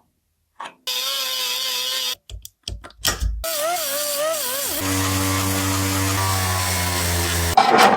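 Power tools running in short cuts: a steady motor whine with a hiss, a few knocks, a wavering whine, then a lower steady hum that stops suddenly near the end.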